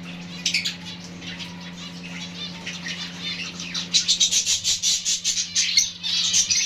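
Zebra finches calling in short, rapid chirps that grow denser and louder about four seconds in.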